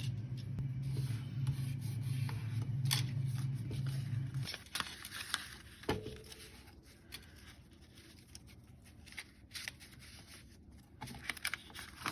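Scissors snipping washi tape and paper, with scattered small clicks of handling. A low steady hum runs underneath and stops about four and a half seconds in.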